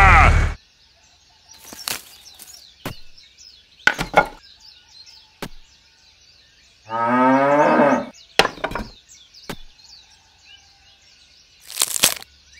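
A cow moos once, for about a second, about seven seconds in, over faint bird chirping. Scattered sharp knocks come every second or two around it.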